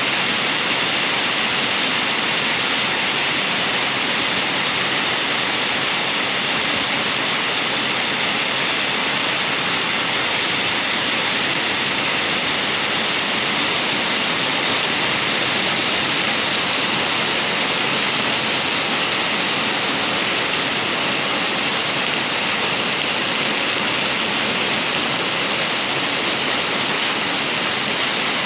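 Heavy rain pouring down steadily onto pavement and parked cars, an even hiss that does not let up.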